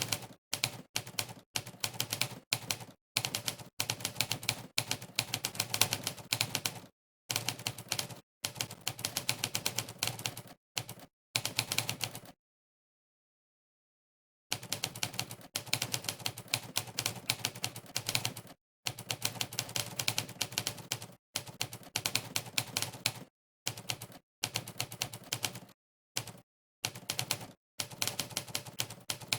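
Monkeytype's typewriter keystroke sound effect: rapid typewriter key strikes, one for each key typed, in quick runs broken by short pauses. About twelve seconds in there is a gap of complete silence lasting about two seconds.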